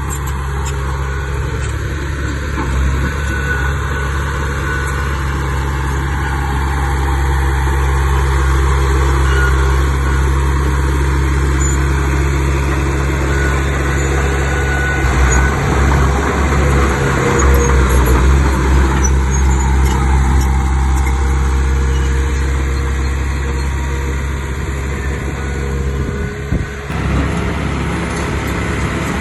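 A bulldozer's diesel engine running steadily at work, a little louder around the middle.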